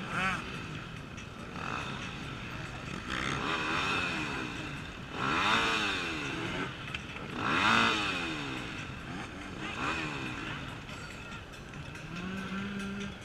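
Off-road racing motorcycles revving, their engine pitch rising and falling in repeated surges. The loudest come about five and a half and nearly eight seconds in.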